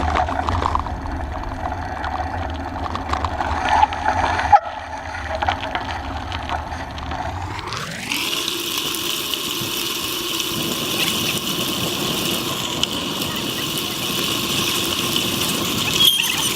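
Riding noise picked up by a camera mounted on a moving bicycle: wind and rolling rumble with scattered knocks. About eight seconds in it shifts quickly to a steadier, brighter hiss.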